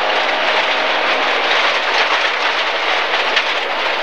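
MG ZR 1.4 rally car driven hard on gravel: a steady rush of tyre noise, with stones rattling irregularly against the underbody, heard from inside the car.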